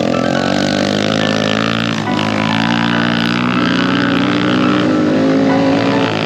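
Small single-cylinder pit bike engine running at fairly steady revs, with a brief dip about two seconds in.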